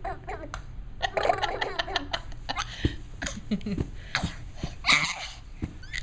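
A young child's voice making silly noises, mixed with giggles and short clicky mouth sounds.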